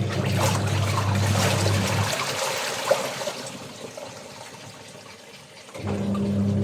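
Water splashing and pouring while laundry is washed. Under it runs a steady electric hum, which cuts out about two seconds in and starts again near the end.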